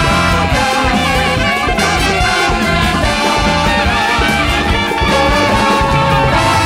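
Live big-band jazz with a horn section of saxophones and trumpet playing over a steady drum and bass groove.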